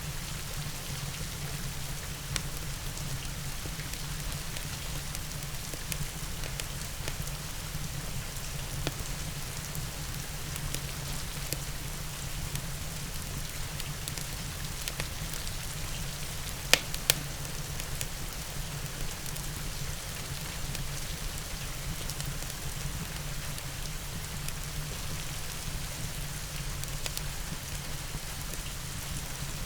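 Steady rain falling, mixed with a crackling log fire: scattered small sharp pops, with two loud pops close together about two-thirds of the way through.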